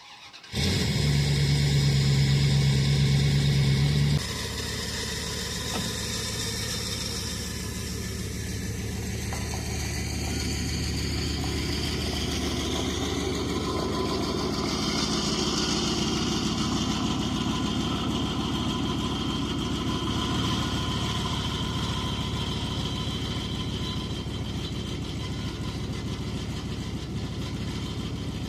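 A vehicle engine starts about half a second in and runs fast and loud for about four seconds. It then drops abruptly to a lower, steady running sound that continues.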